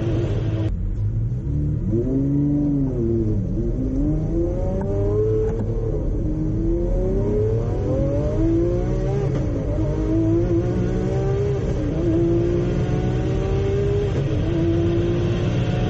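Twin-turbocharged Lamborghini Aventador V12 under hard acceleration, its engine note climbing in pitch again and again through the gears, with an abrupt shift about a second in.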